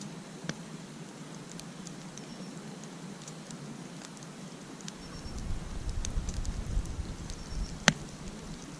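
Campfire crackling: burning wood giving off scattered sharp pops and snaps, with one loud pop near the end. A low rumble comes in about halfway through and fades before the last pop.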